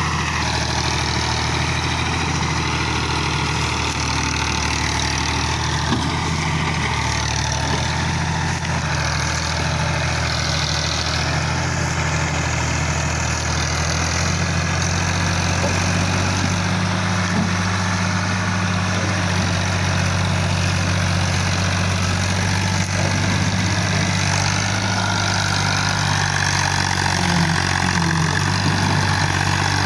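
Fiat 480 tractor's diesel engine running steadily, its low note changing slightly about halfway through.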